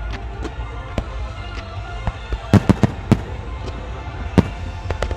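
Aerial fireworks shells bursting with sharp bangs: a quick cluster of about five bangs two and a half to three seconds in, and a single loud bang a little over four seconds in.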